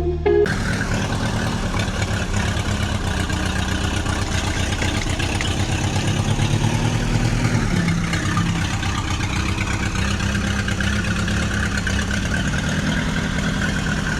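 A tractor engine running steadily with a rapid low pulse.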